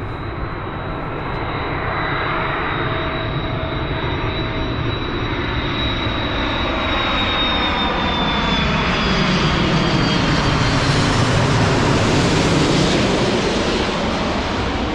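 A large jet airliner on landing approach flying over, its engines running and growing louder as it nears. A high, thin whine sits above the rumble and slowly drops in pitch as the aircraft passes.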